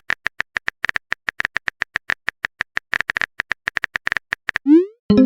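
Rapid taps of a smartphone on-screen keyboard's click sound effect, about six a second, then a short rising tone near the end, like a message-sent alert.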